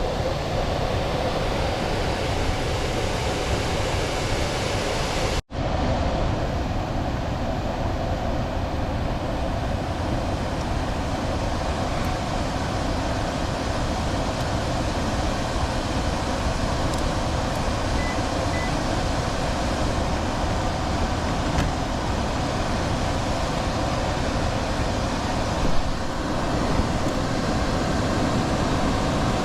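Air handler blower running steadily with the electric heat strips energized: an even rush of air with a faint steady hum. No contactor buzz is heard this time. The sound cuts out completely for an instant about five seconds in, then carries on unchanged.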